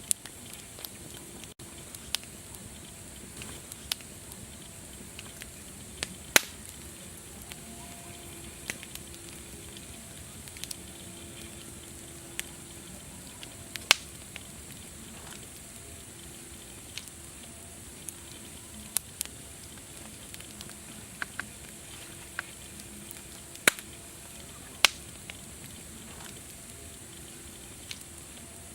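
Campfire crackling: a steady hiss with irregular sharp pops every second or few, a handful of them much louder than the rest.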